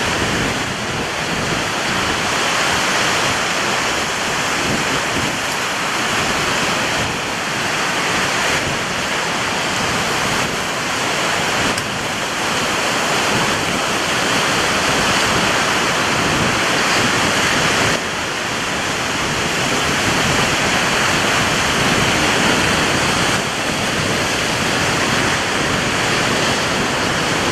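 Strong ocean surf breaking and rushing continuously, swelling and easing every few seconds, with wind blowing on the microphone.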